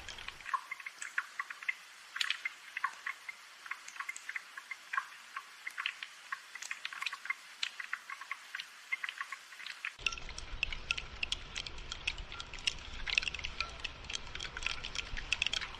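Rain falling, heard as a dense scatter of separate drop ticks and drips. About ten seconds in, a low steady background noise comes in underneath.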